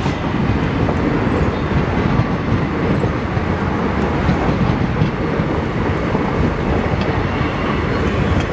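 Passenger coaches of an express train rolling past close by: a steady, loud rumble of wheels on the rails.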